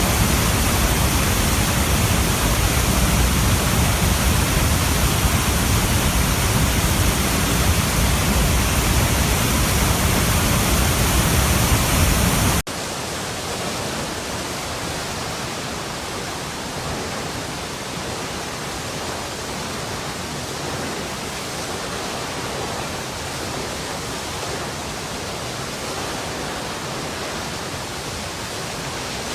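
Running water, a steady rush. About twelve seconds in it cuts suddenly to a quieter, thinner rush with less low rumble.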